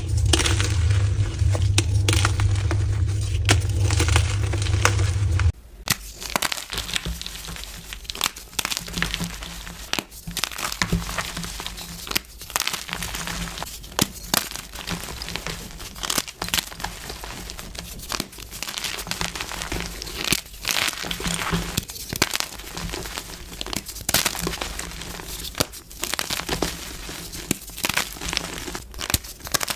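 Soft gym chalk blocks being crushed and crumbled by hand: dense, irregular crunching and crackling. A loud steady low hum runs under it for the first five seconds or so, then cuts off suddenly and the crunching goes on more quietly.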